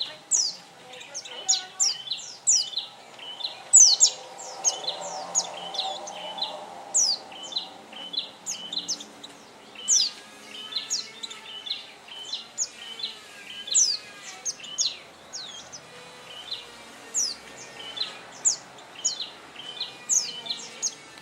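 White-eye (pleci) singing: a rapid, continuous run of short, high chirps, each falling sharply in pitch, several a second.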